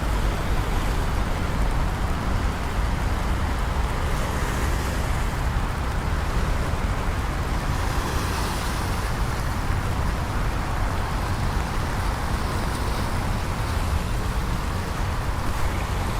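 Steady rainy city ambience: traffic on wet streets with a constant low rumble, and a slight hiss swelling about halfway through, typical of a passing car's tyres on wet pavement.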